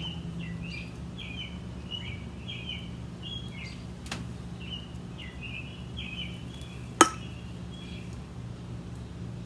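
A bird singing short chirping phrases again and again over a steady low background hum. About seven seconds in comes a single sharp knock, the loudest sound: an aluminium beer can being set down on a table.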